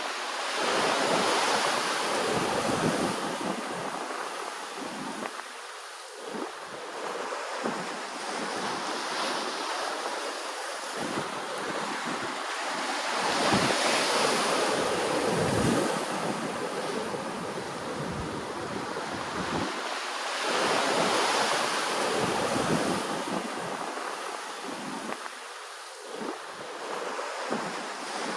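Ocean waves washing in, a steady hiss of surf that swells louder three times as waves arrive.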